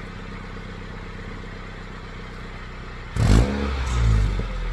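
Straight-piped Mini Cooper F56 exhaust, fitted with pool noodles as makeshift mufflers, idling steadily, then revved sharply about three seconds in and held at higher revs.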